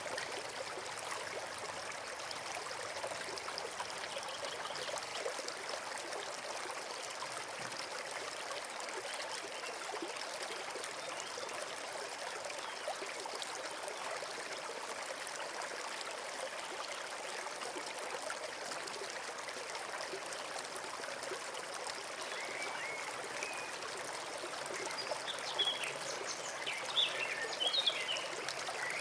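Small forest stream trickling and babbling steadily. Near the end, a bird chirps a few times over the water.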